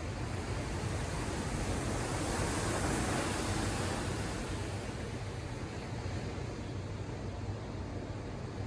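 Ocean surf: a wave builds to a louder wash about three seconds in, then recedes, over a steady low rumble of the sea.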